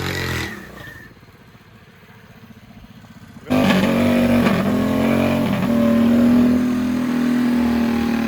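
Mini bike engine: it putters quietly for a couple of seconds, then runs loud and high-revving from about three and a half seconds in, with two brief dips in pitch.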